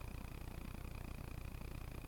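Steady low background rumble and hiss with a faint steady high tone; no gunshots.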